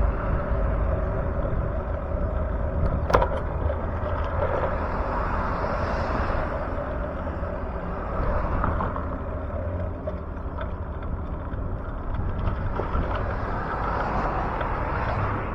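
Steady rushing noise of a bicycle ride on city streets, with road traffic in it. One sharp click about three seconds in.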